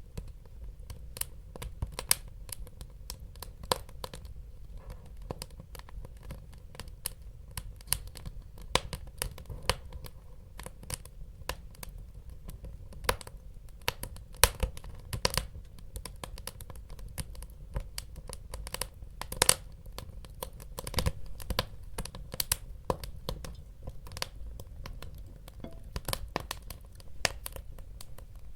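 Wood fire burning in a fireplace: irregular sharp crackles and pops over a low, steady rumble of flame.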